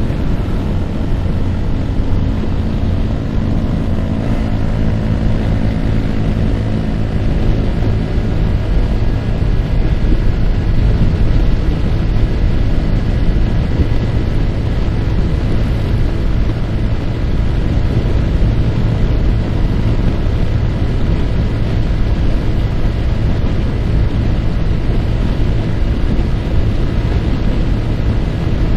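Yamaha R15 motorcycle's single-cylinder engine running at a steady cruise, with heavy wind rushing over the microphone.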